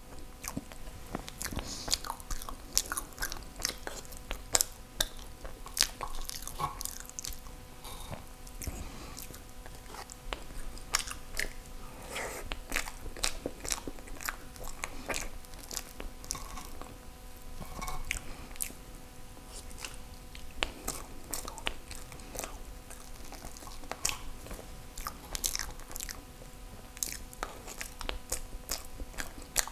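Close-miked chewing of soft durian crepe cake, with many small, sharp mouth clicks and smacks throughout.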